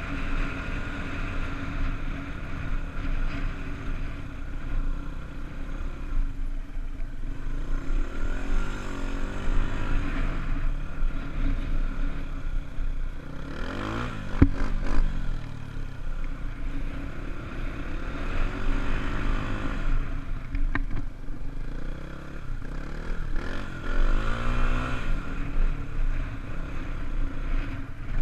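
Honda dirt bike engine running and being revved up and down again and again, its pitch rising and falling in swells every few seconds, with a few brief clatters.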